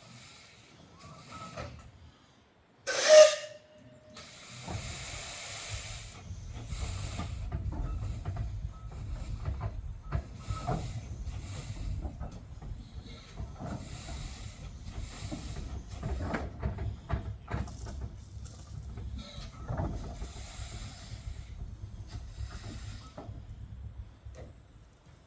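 Steam locomotive sounding a brief, loud whistle blast about three seconds in. From about five seconds the train runs by with a steady low rumble and hiss of steam, dying away near the end.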